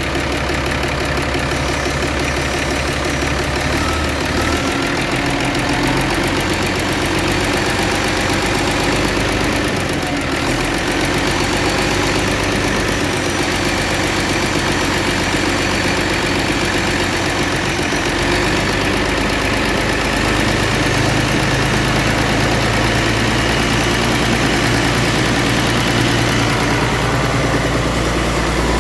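Mitsubishi 6D22 inline-six diesel engine running steadily, its note shifting a few times as the throttle is worked.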